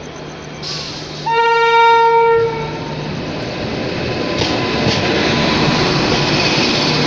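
Locomotive horn of the Dehradun–New Delhi Shatabdi Express sounding one steady blast, about a second long, just over a second in. It is followed by the train's rumble growing louder as it approaches.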